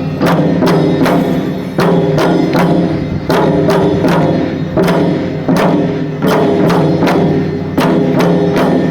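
Lion-dance percussion: drum strikes played in a steady, fast rhythm of about two to three beats a second, each stroke ringing on.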